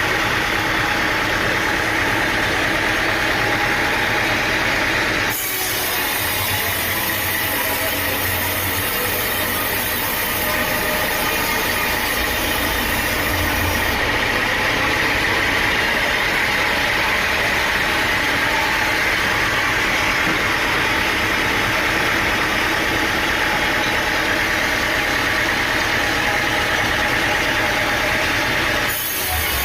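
Sawmill machinery running steadily: an engine-driven saw rig. The sound breaks off abruptly about five seconds in and again near the end, each time picking straight up again.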